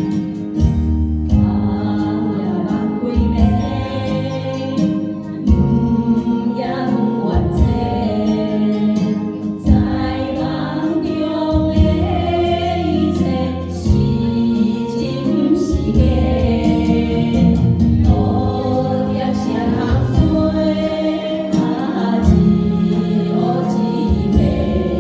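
A song: singing voices over instrumental backing with a steady beat.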